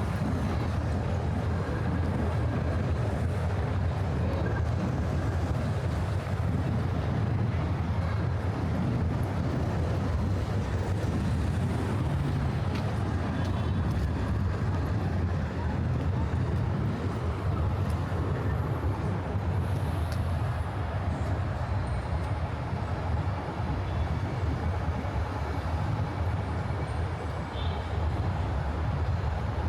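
Steady low rumble of city traffic, a continuous drone with no distinct events standing out.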